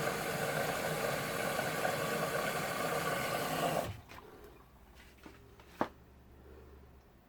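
Washer dryer running early in a wash cycle: a steady machine noise for about four seconds that stops suddenly, leaving a faint low hum and a couple of soft clicks.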